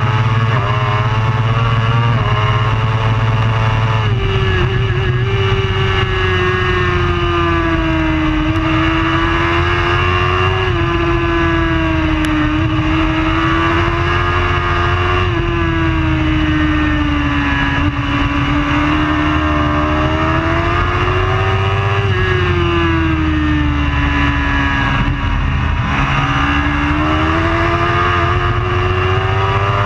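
Superbike race motorcycle engine running hard at high revs, its pitch rising and falling over several seconds with a few abrupt steps as the throttle and gears change.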